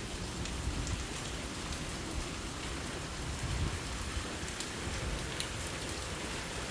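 Heavy rain falling steadily, with scattered sharp drop ticks over a low rumble.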